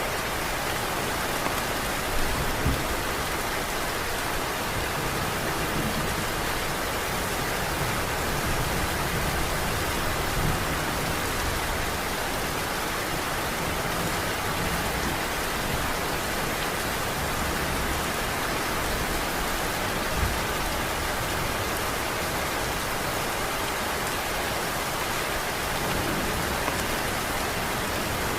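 Heavy rain falling steadily: a constant, even hiss of raindrops on surfaces, with a few brief louder drop hits.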